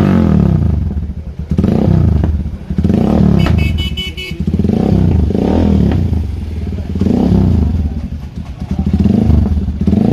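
Motorcycle with an aftermarket exhaust being revved in repeated throttle blips, the engine note rising and falling about every two seconds. A short high beeping is heard about three and a half seconds in.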